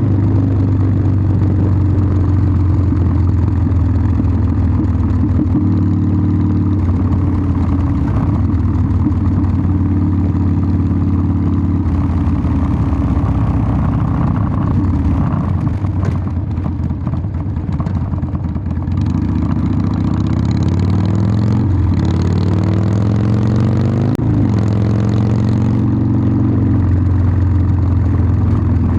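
Harley-Davidson Sportster 1200's air-cooled V-twin running under way, its exhaust note steady at first, easing off in the middle, then rising in pitch twice with a short break between, as on upshifts, before settling again near the end.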